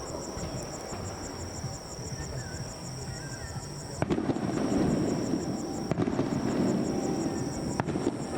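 Aerial fireworks shells bursting over a continuous low rumble, with sharp bangs about four, six and eight seconds in; the rumble grows louder after the first bang. A steady high-pitched pulsing trill runs underneath.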